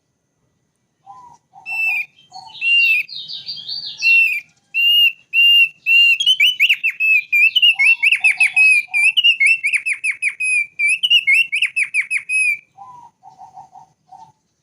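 Thick-billed white-eye (Heleia crassirostris) singing: a run of clear whistled notes that quickens into rapid trilled phrases in the middle and stops near the end. Three times a short group of lower notes breaks in: at the start, partway through and just before the end.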